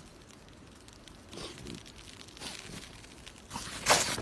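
Rough tearing, crinkling noises in a few bursts, the loudest near the end.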